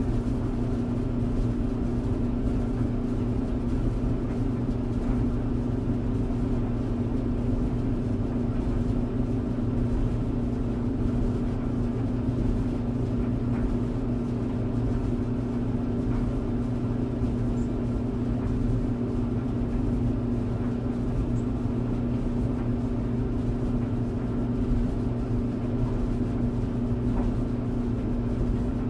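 Clothes tumble dryer running steadily: an even low motor hum with a few held tones over a soft rushing noise, with no thumps or breaks.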